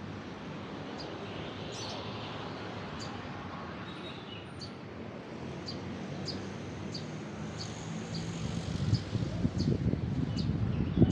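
Small birds chirping in short, regularly repeated calls over a steady low hum of road traffic. A low rumble swells louder over the last few seconds.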